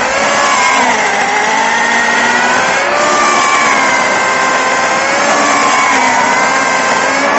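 Electric chainsaw running and cutting wood, its motor whine dropping in pitch as the chain bites in and rising again as it eases off.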